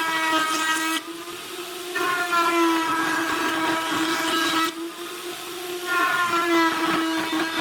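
High-speed electric power tool motor running with a steady whine, cutting or working wood in three loud passes with brief lighter moments between them.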